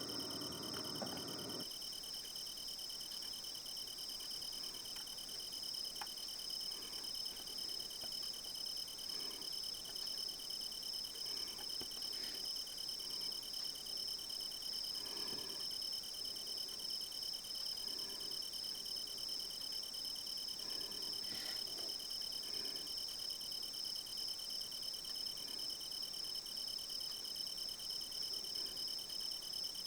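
Crickets trilling steadily in several high, even pitches, with a few faint light taps now and then.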